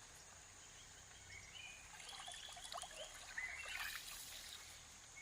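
Faint riverside evening ambience: a bird giving a run of short, high chirps for a few seconds, over a steady high insect drone and the faint trickle of river water.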